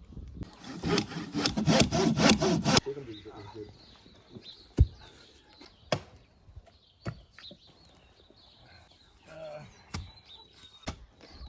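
A saw cutting through wood in a quick run of strokes lasting about two seconds, followed by a few separate sharp knocks of wood or tools.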